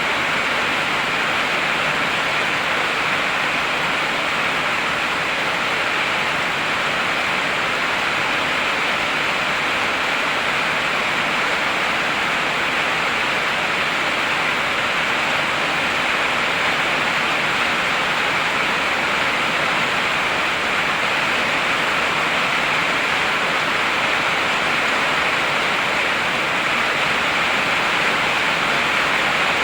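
Heavy rain falling in a steady, unbroken downpour, with no thunder.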